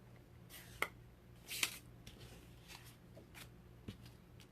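Small plastic clicks and taps of rubber-stamping supplies being handled on a desk, with a louder click and rustle about one and a half seconds in, over a faint steady low hum.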